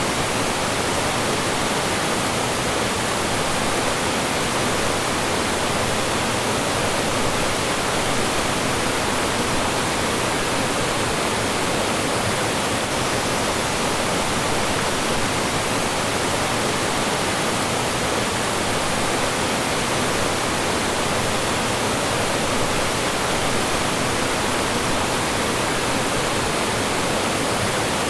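Mountain stream rushing over rocks and small falls, a steady full rush of water with no pauses.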